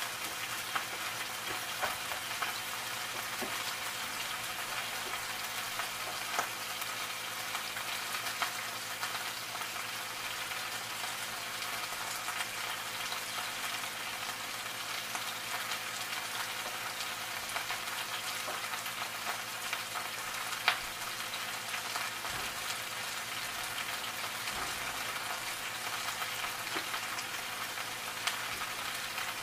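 Kale and other vegetables sizzling in frying pans on a gas stove: a steady crackling sizzle with scattered small pops and one sharper pop about twenty seconds in.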